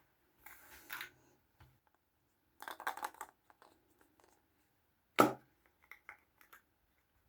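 Small plastic Kinder Surprise toys and their packaging being handled: short bursts of rustling and scraping, then one sharp click a little past five seconds in, the loudest sound, followed by a few light ticks.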